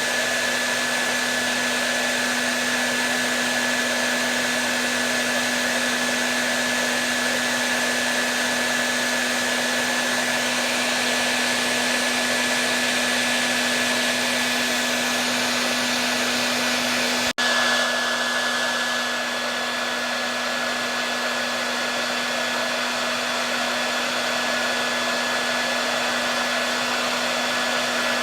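Hair dryer running steadily: a continuous airy rush over a constant motor hum and a thin high whine. About two thirds of the way through, the sound drops out for an instant and resumes.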